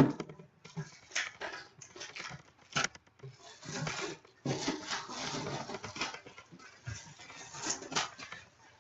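Cardboard and plastic packaging rustling, scraping and tearing in irregular bursts as a sealed collectible jersey box is opened by hand, with a sharp knock right at the start.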